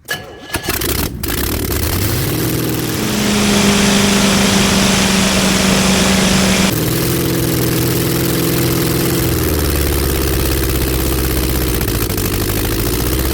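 Rebuilt small block Chevy V8 engine on a test stand catching about a second after cranking, then revved and held at high rpm for a few seconds before dropping sharply back to a fast idle that settles lower near the end.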